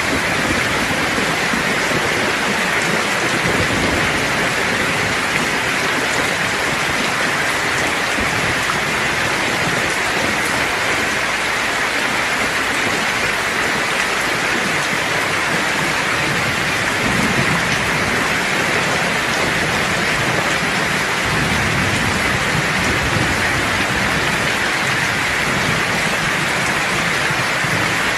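Steady heavy rain falling and pattering on surfaces, with low rumbles of distant thunder rolling in about two-thirds of the way through and again near the end.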